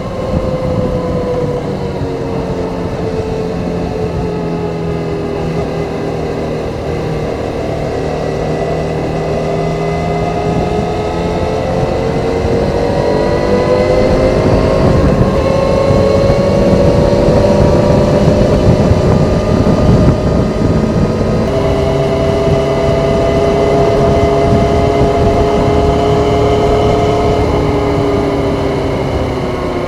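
Stock-exhaust 2001 Kawasaki ZZR400 inline-four motorcycle engine running at road speed. Its pitch sinks over the first several seconds, then climbs and gets louder as the bike accelerates, shifts about two thirds of the way in, and holds steady.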